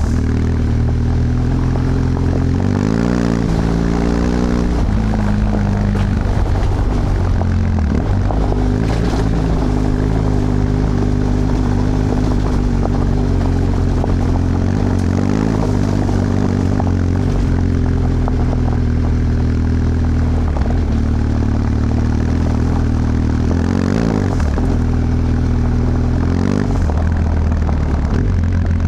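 BMW F 800 GS parallel-twin engine running on its original exhaust while riding, heard from on board the bike. Its steady note rises and falls in pitch a few times, most clearly about three seconds in and again near the end.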